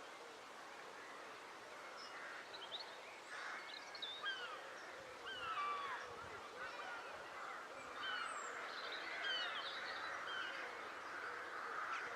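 A colony of crows calling over and over, many short falling calls overlapping, the calls thickening and getting louder in the second half as the birds mob an RC glider.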